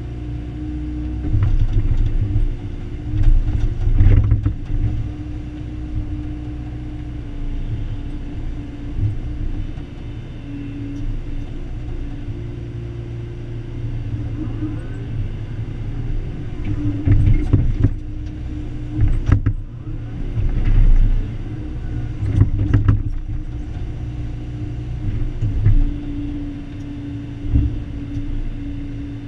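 Excavator's diesel engine running steadily while digging, its pitch shifting now and then as it works, with several sharp knocks and clanks.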